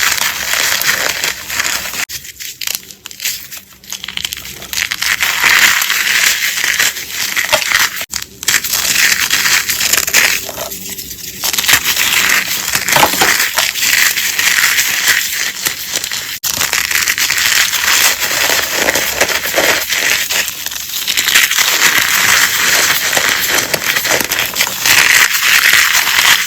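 Blocks of gym chalk being crushed and crumbled by hand, a dense, crunchy crackling. It breaks off and starts again a few times as one clip cuts to the next.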